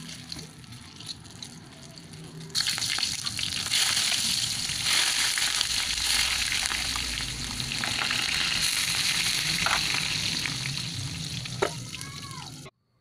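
Pork slices sizzling in oil and dark sauce in a wok, a steady hiss that gets much louder about two and a half seconds in as they are turned with metal tongs. A few sharp metal clicks come near the end as a lid goes on, then the sound cuts off suddenly.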